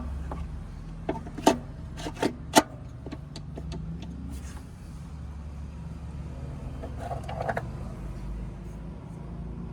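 Several sharp knocks and clicks in quick succession between one and three seconds in, and a few softer ones about seven seconds in, over a steady low hum.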